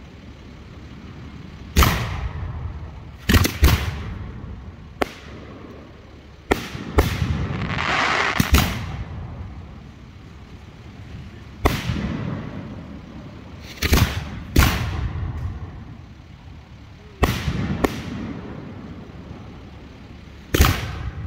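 Hand-fired 3- and 4-inch aerial fireworks shells going off, about a dozen sharp bangs, some in quick pairs, each trailing off in a rumbling echo. A short spell of hissing comes about eight seconds in.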